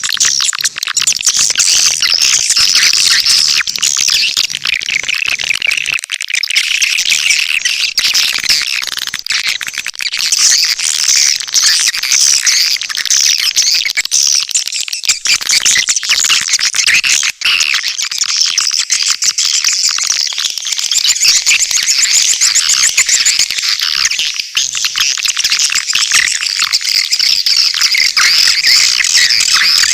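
Swiftlet calling track: dense, continuous twittering chirps of many swiftlets mixed with rapid clicking. It is a lure call of the kind played to draw swiftlets into a nesting house.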